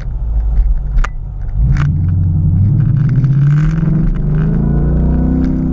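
2017 Ford Mustang GT's 5.0 L V8 through a Magnaflow Competition cat-back exhaust, heard from inside the cabin, pulling under acceleration with the revs climbing steadily from about two seconds in. Two short sharp clicks come about one and two seconds in.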